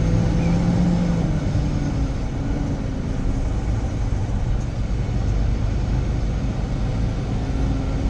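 Steady road and engine rumble of a moving vehicle heard from inside, with a low engine hum that is strongest in the first second or so.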